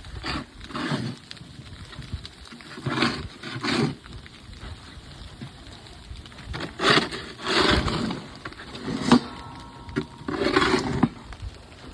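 Snow shovel strokes: about eight rough scraping, swishing strokes, mostly in pairs, with a sharp knock about nine seconds in.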